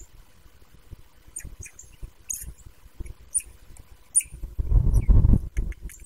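Several short, high bird chirps, spaced out, with a louder low rumble lasting about a second near the end.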